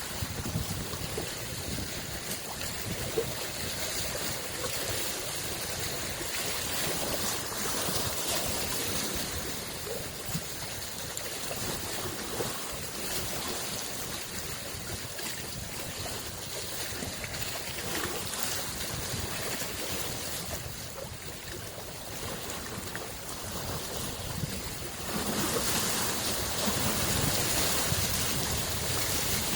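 Small waves on Lake Biwa washing in, a continuous wash of water that swells and eases, growing louder in the last few seconds.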